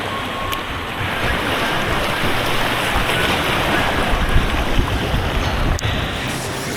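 Rushing white water on an artificial white-water course, a steady, dense rush, with wind buffeting the action camera's microphone.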